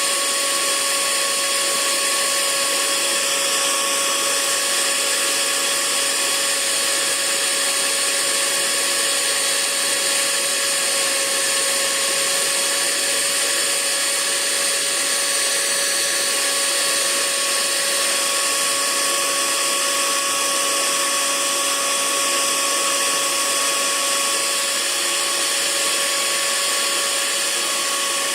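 Hair dryer running steadily, a constant rush of air over a motor whine, used as white noise to help a baby sleep.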